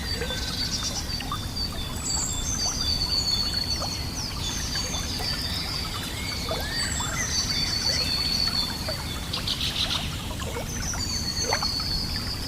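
Several birds singing, with many short high whistled phrases and chirps and a couple of quick trills, over the steady rush of running water.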